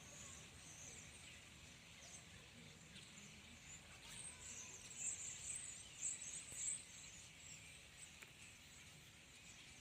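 A flock of small birds calling, thin high-pitched chirps that come louder in a cluster about five to seven seconds in, over faint outdoor noise.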